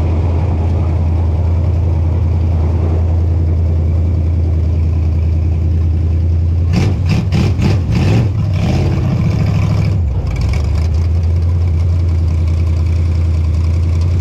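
Dirt modified race car engine idling with a steady low note, with a short burst of throttle blips and popping about halfway through before it settles back to idle.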